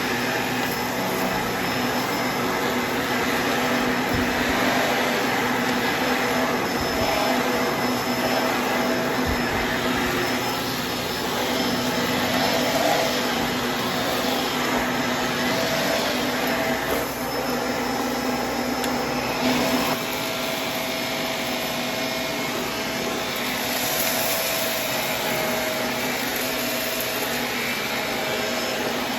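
Vacuum cleaner running, its motor steady, sucking up scattered dry debris with irregular crackling. About two-thirds of the way through, the crackling stops and the vacuum runs on smoother and a little quieter.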